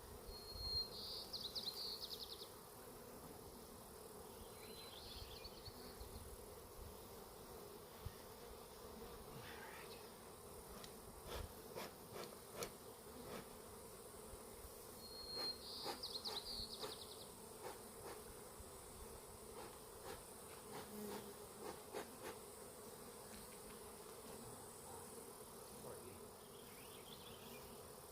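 Honeybees buzzing steadily around a hive that has just been knocked over. A short high trill comes four times, and faint clicks and light knocks cluster around the middle.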